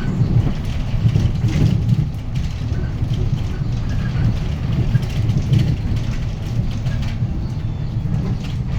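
Hyundai Green City city bus under way, heard from inside the cabin near the front: the D6GB diesel engine runs steadily with a low drone, mixed with road noise and interior rattles.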